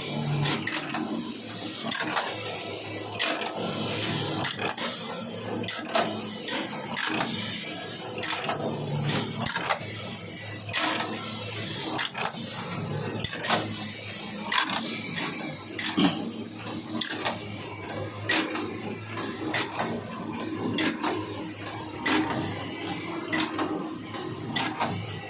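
Matsuya M100 automatic knitting machine running, a steady mechanical whir with a high whine and frequent sharp clicks and clacks of the carriage and needles.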